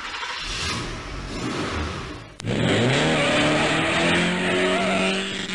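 Car engine sound effect: a rushing noise, then about halfway a sharp click and the engine revs up in pitch and holds a steady high rev.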